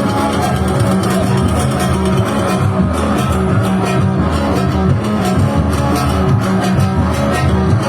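Instrumental band music, with plucked strings like a guitar over bass, playing continuously without singing.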